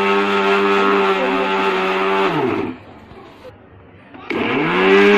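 Electric mixer-grinder motor grinding boiled chicken and chana dal into a paste. It runs at a steady pitch, winds down about two and a half seconds in, then starts up again about four seconds in, rising back to speed.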